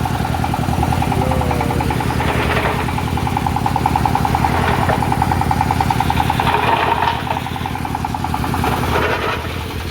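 Large processing machine running loudly and steadily, with a fast, even throb.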